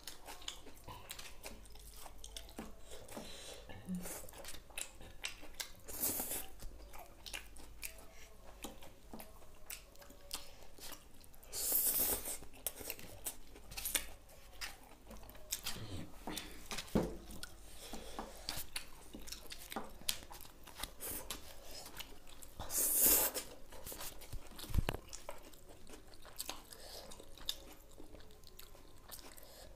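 Two people chewing mouthfuls of fried noodles, with many small clicks of forks against foil-lined paper plates and a few louder noisy bursts.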